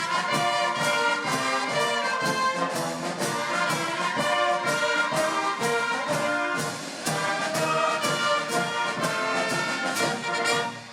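Brass band music: brass instruments playing held chords over a steady beat, ending abruptly right at the end.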